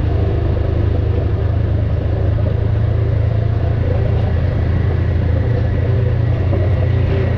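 Off-road vehicle's engine running steadily, a constant low rumble with no revving.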